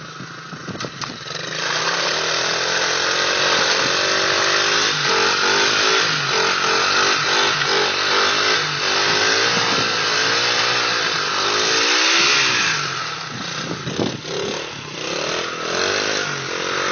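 Small 70cc dirt bike engine revved hard and held high for a burnout, its pitch wavering up and down over a loud hiss. The revs drop off about twelve seconds in, then come back in shorter, uneven blips.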